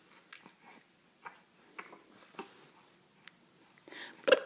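Mostly quiet room with a few faint, scattered clicks, then a voice making a sound near the end.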